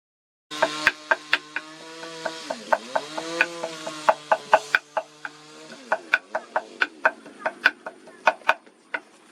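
Crab shell cracking and crunching as it is eaten: sharp cracks about two to three a second. A low wavering pitched tone sounds under them for the first five seconds or so.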